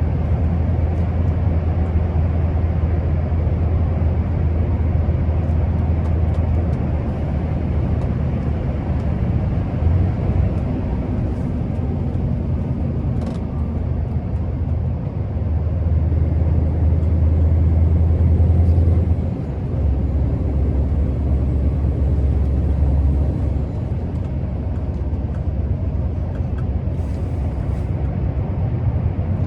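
Scania R650's 16-litre V8 diesel engine running while the truck is driven, a steady low drone that swells and eases several times with the load and drops off suddenly about nineteen seconds in.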